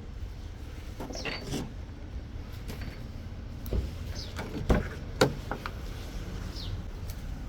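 Low steady rumble from a Toyota Hilux Mighty-X pickup, heard from the cab, with several knocks and clicks, the loudest about five seconds in, and a few short high squeaks.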